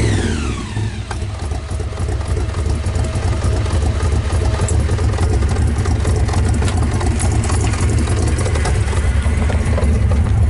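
XB Ford Falcon Mad Max Interceptor replica's blown engine idling: a rev falls away in the first second, then it settles into a steady, deep idle.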